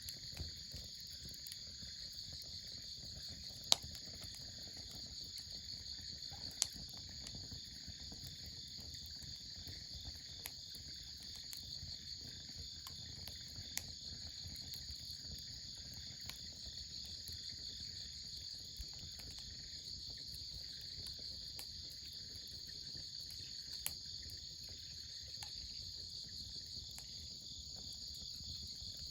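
Steady chorus of insects trilling high up, with the sharp pops and crackles of a wood fire every few seconds, the loudest about four seconds in.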